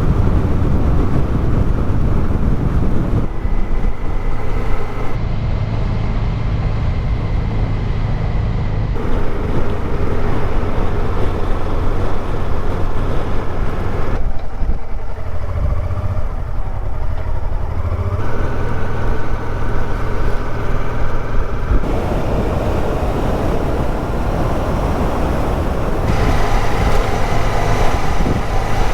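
Honda Deauville motorcycle being ridden on the road: steady engine and road rumble heard from the bike. The sound changes abruptly about every four seconds.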